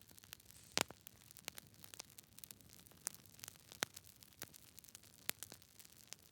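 Wood fire crackling in a fireplace: irregular sharp pops and snaps over a faint hiss, the loudest pop about a second in.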